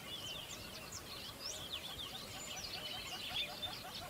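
Many birds chirping at once: dense, overlapping quick high chirps, with a lower note repeating several times a second from about halfway through.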